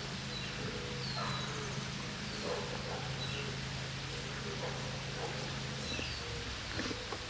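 A bird giving short, falling chirps every second or so, over quiet outdoor ambience and a low steady hum that stops about six seconds in.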